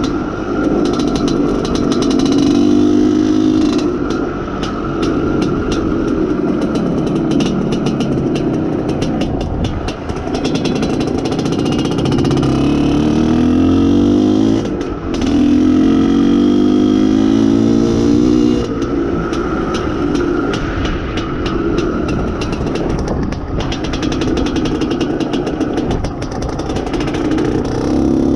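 An IZh Planeta Sport's single-cylinder two-stroke engine under way while it is being run in. It revs up through one gear after another, with short dips between the rising sweeps where the rider shifts.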